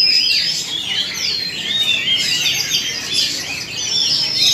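Several oriental magpie-robins singing at once, overlapping loud whistled phrases and rapid chattering notes.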